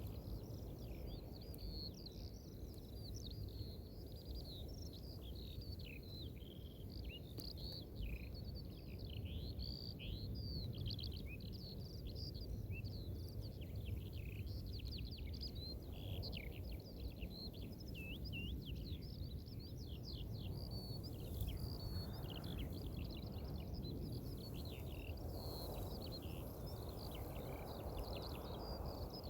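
Many small songbirds singing at once, a continuous dense chorus of quick chirps and trills, over a steady low rumble.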